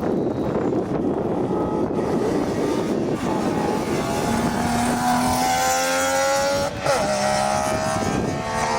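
A rally car's engine approaching under hard acceleration, climbing in pitch, with a quick gear change about seven seconds in.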